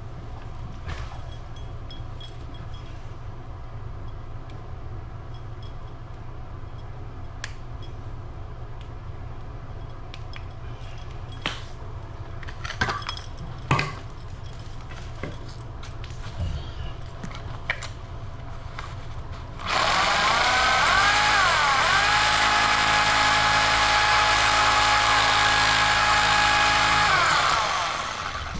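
Scattered clicks and knocks of work over a low steady hum. About twenty seconds in, an electric power tool starts up, its whine rising to a steady pitch. It runs for about six seconds, then winds down near the end.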